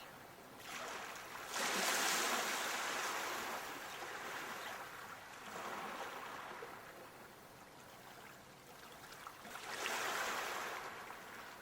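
Water washing in swells: three surges of hiss a few seconds apart, the strongest about two seconds in, each swelling and fading away, like waves washing in and drawing back.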